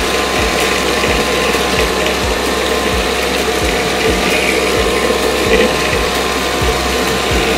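Small 6-volt DC motor of a homemade bottle vacuum cleaner running steadily, with a regular ticking about twice a second.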